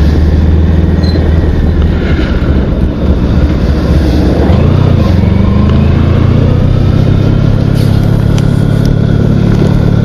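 Motorcycle engine running steadily under way; about four and a half seconds in, its note shifts up and keeps climbing slowly as the bike accelerates.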